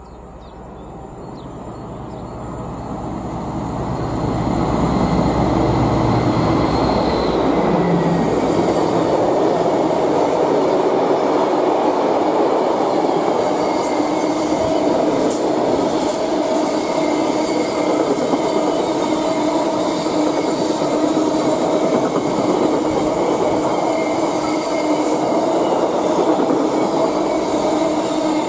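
Class 60 diesel locomotive approaching and passing under power, its low engine rumble building over the first few seconds and falling away about eight seconds in. A long rake of tank wagons then rolls by, with a steady rumble of wheels on rail and a faint whining squeal.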